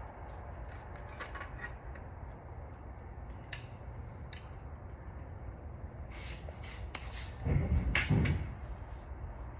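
Scattered light metallic clicks and handling noises from hand tools and engine parts during clutch removal, over a steady low hum. About six seconds in there is a louder cluster of knocks and clatter, with a brief squeak.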